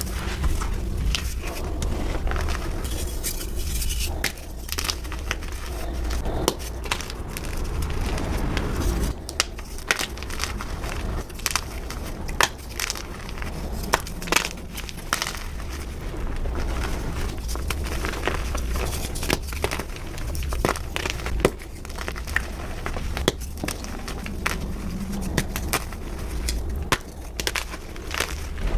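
Gym chalk being crushed and crumbled: a continuous run of crunching and crackling with sharp snaps, several a second at times, over a low rumble.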